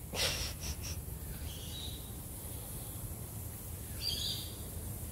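Quiet outdoor ambience with a steady low hum and two faint, high bird chirps, one about two seconds in and one about four seconds in.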